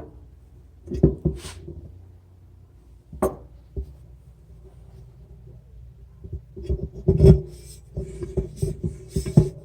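Hand tools and hardware being worked on a washing machine's tub: intermittent scraping and rubbing with knocks. There is a cluster about a second in and a busier, louder run from about seven seconds on.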